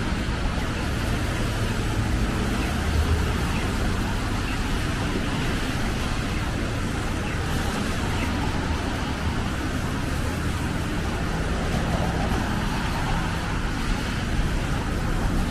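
Steady road traffic noise: a continuous hiss of passing vehicles over a low engine rumble.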